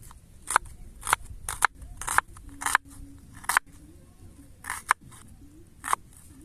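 A series of about ten short, sharp cutting strokes at uneven intervals, from hands working food for a campfire meal.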